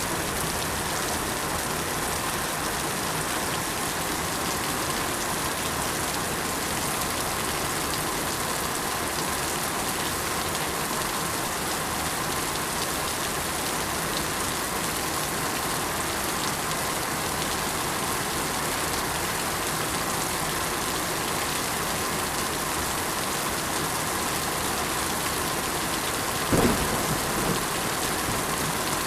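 Steady, even rain falling on surfaces. About three seconds before the end comes a brief low rumble.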